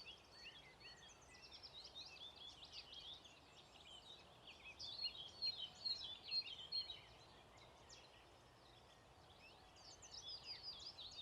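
Songbirds singing fast, chattering phrases of quick chirps, busiest midway, easing off for a couple of seconds and picking up again near the end, over a faint steady outdoor hiss.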